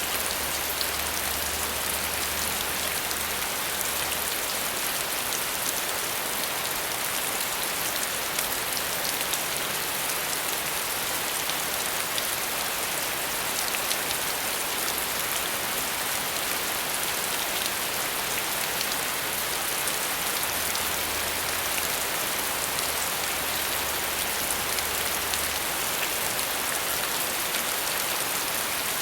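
Steady rain falling, an even hiss of many drops with no break or thunder. A faint low hum comes in near the start and again past the middle.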